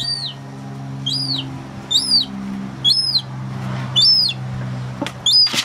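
Young gull chick peeping: a high, arched cheep that rises and falls, repeated about once a second, six times.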